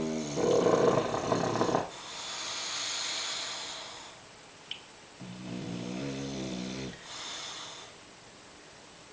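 Bulldog snoring: two breaths, each a loud, rasping snore followed by a softer hiss. There is a short click between the two breaths.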